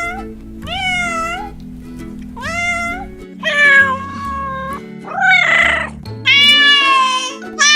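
Kittens meowing, about five meows of varying length: short rising-and-falling calls, one rougher and hoarser, and a long drawn-out meow near the end. Soft background music with steady low notes runs underneath.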